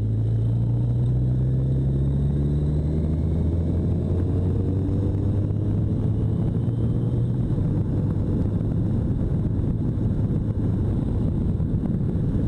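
A 1985 Honda Nighthawk 650's inline-four engine accelerating, its note climbing slowly over the first seven seconds or so, then running steadily.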